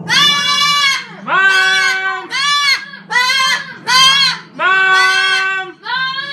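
Pet parrot calling loudly about seven times in a row. Each call lasts half a second to a second on a steady pitch, with short gaps between them.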